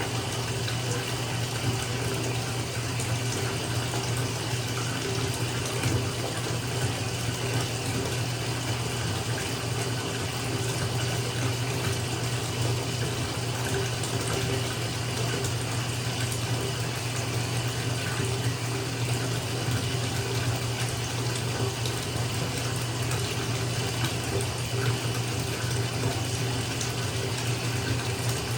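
Tap water pouring steadily into a filling bathtub, with a low, even rumble under the splashing.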